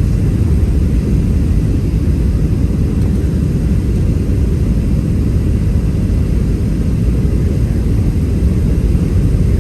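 Steady cabin noise inside a Boeing 737-700 airliner: a low rumble of its CFM56-7B jet engines and airflow, even throughout.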